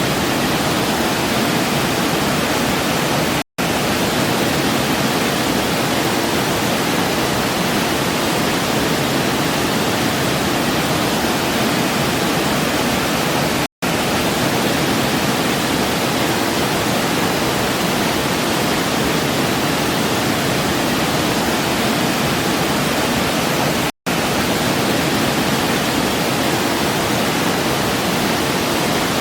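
Waterfall, a steady rush of falling water. It cuts out to silence for an instant three times, about ten seconds apart.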